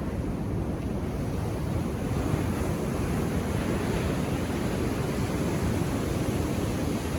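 Ocean surf washing on a beach, a steady rush of breaking waves that swells slightly a few seconds in.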